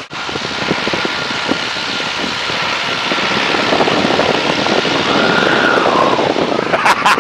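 De Havilland Tiger Moth's Gipsy Major engine and propeller running in flight, heard with heavy wind rush in the open cockpit, growing louder over the first few seconds.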